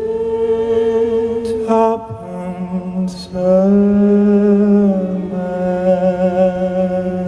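A male voice singing long held wordless notes over a low steady drone, a couple of breaths between the phrases.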